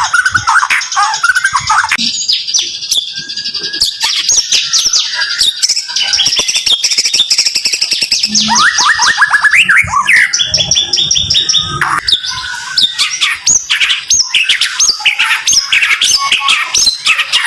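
White-rumped shama (murai batu) singing 'tembakan': tight, rapid-fire runs of short, sharp high notes fired off many times a second, phrase after phrase.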